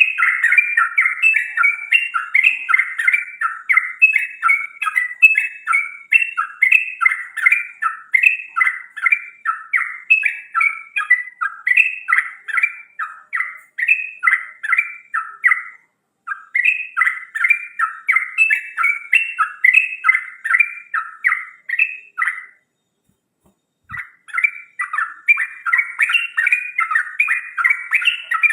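A songbird singing a fast, continuous string of whistled notes, about three a second, with a short pause about midway and a longer pause of a second or so near the end.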